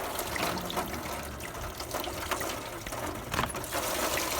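Antifreeze running steadily into a drain pan, with a few light clicks.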